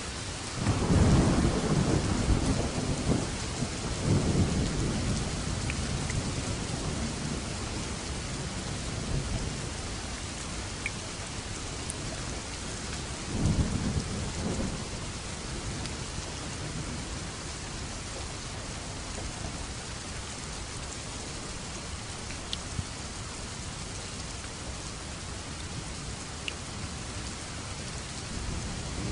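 Steady rain with thunder: a loud rumble of thunder breaks about half a second in and rolls on for several seconds, and a second, shorter peal comes about halfway through, with the rain running on between them.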